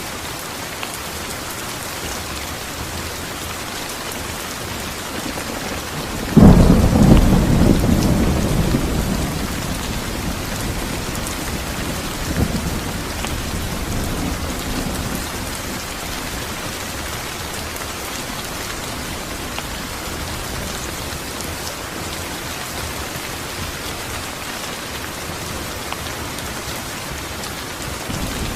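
Steady rain falling, broken about six seconds in by a sudden loud thunderclap that rumbles and fades over several seconds, with a smaller rumble of thunder a few seconds later.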